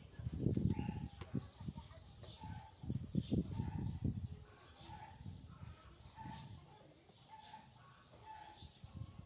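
Small birds chirping over and over, short high chirps about twice a second with lower notes in between. Two louder low rumbles come in the first half.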